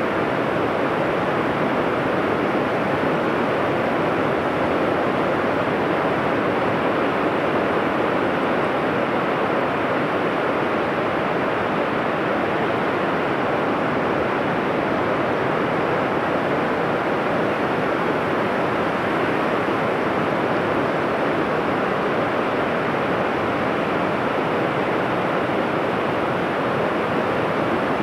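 Ocean surf breaking on the beach: a steady, even wash of wave noise with no distinct swells or lulls.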